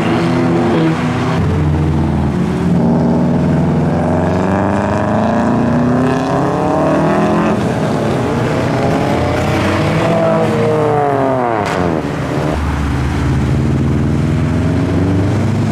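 Modified car engines running and revving as cars pull away, their notes rising and falling several times. About ten seconds in one accelerates hard, its note climbing and then sweeping down, with a sharp crack just after.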